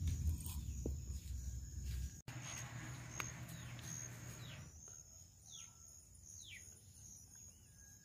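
Outdoor ambience: a low rumble for the first half, then a bird giving short chirps that slide steeply down in pitch, about one a second, over a steady high-pitched insect trill.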